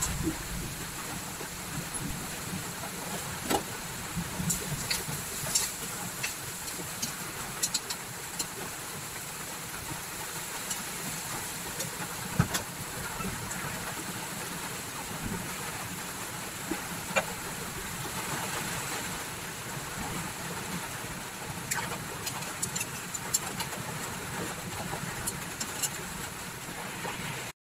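Chicken feet sizzling in a wok over a gas burner, a steady hiss with scattered sharp clicks and pops.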